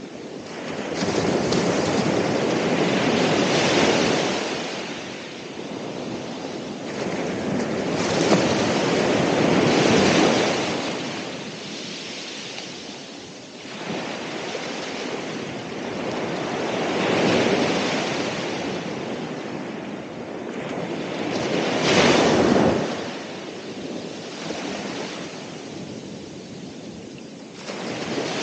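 Ocean waves breaking on the shore, the surf swelling and fading in slow surges every several seconds, the strongest crash about three quarters of the way through.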